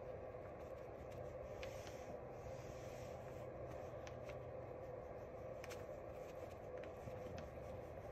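Faint scratching and dabbing of a paintbrush caking thick paint onto the picture, with a few light taps, over a steady low hum.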